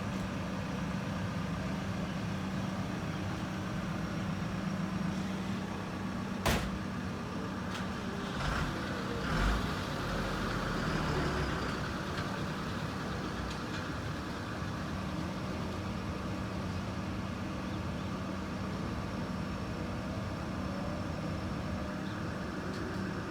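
Heavy diesel machinery running steadily during soil loading, with one sharp metallic knock about six and a half seconds in and a few duller bumps soon after.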